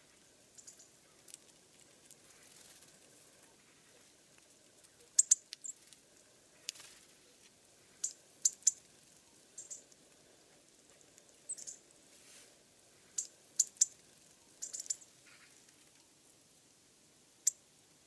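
Small feeder birds making scattered, sharp, high-pitched ticks and chips, about a dozen, some in quick pairs, over a faint hiss.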